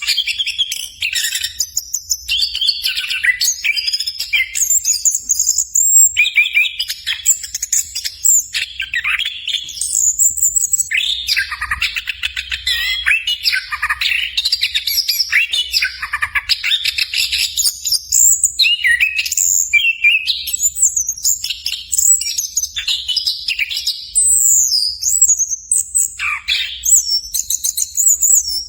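Chestnut-capped thrush (anis kembang) singing: a fast, varied, nearly unbroken run of whistled and trilled phrases.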